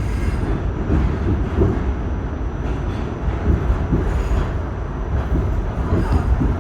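R46 subway car's steady low rumble, with a faint thin high tone running through it.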